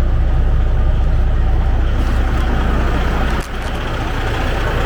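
Diesel engine of a 2004 Freightliner Columbia semi truck idling steadily, warmed up after running for an hour. About three and a half seconds in, the low rumble drops suddenly, and the engine carries on a little quieter.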